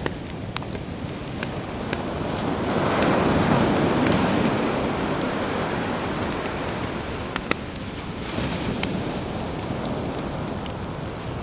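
Sea waves washing ashore, one swelling surge about three seconds in and a smaller one near the end, over a crackling campfire with scattered sharp pops.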